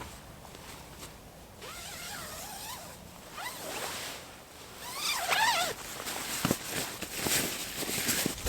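Zipper being pulled in several quick strokes, as when a tent door is unzipped and zipped shut.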